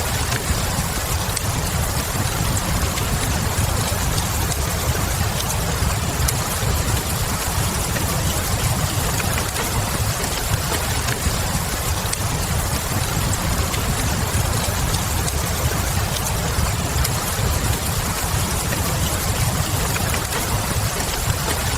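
Steady rain with a wood fire crackling, a few faint pops scattered through an even hiss over a deep, constant low rumble.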